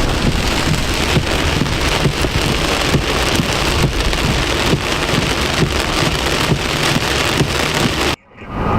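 Heavy rain pelting a vehicle as it drives through a thunderstorm's downpour: a dense, steady hiss of countless drop impacts. It cuts off suddenly near the end.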